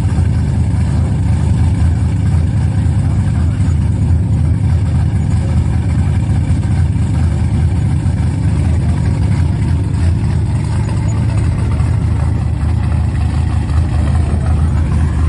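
Vehicle engine running steadily at a low, even pitch.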